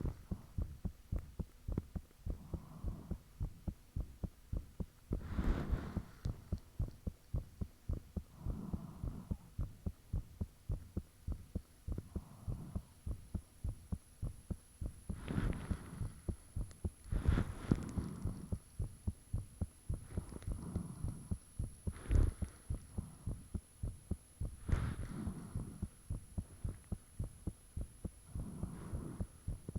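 A person's own heartbeat heard close up: a steady, regular train of low thumps. Several louder whooshing swells come and go over it, and a faint high steady whine sits underneath.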